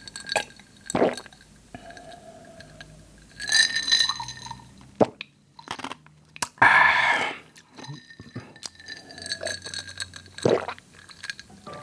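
Close-up mouth sounds of drinking a fizzy soft drink, sips and swallows, with a few light clinks of glass. A louder rushing sip comes about seven seconds in.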